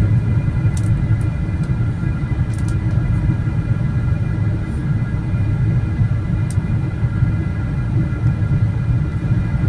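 Steady low rumble of a moving vehicle, heard from inside, with a few faint steady tones over it and occasional light ticks.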